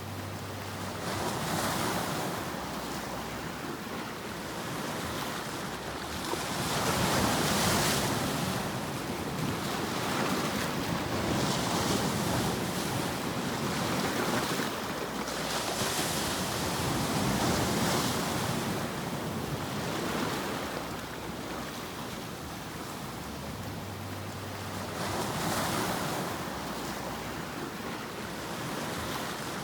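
Steady rushing noise of ocean surf, swelling and fading in slow, irregular surges every few seconds.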